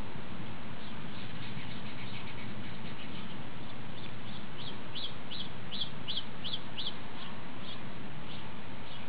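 A bird calling: a run of short, high notes repeated about two or three times a second, loudest around the middle, over a steady background hiss.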